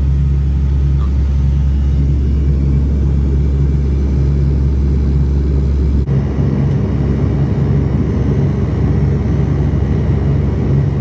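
Cabin drone of an ATR 42-300's twin Pratt & Whitney Canada PW120 turboprop engines and propellers, a steady low rumble with a regular throb. The sound changes abruptly about six seconds in, the deepest part of the rumble dropping away.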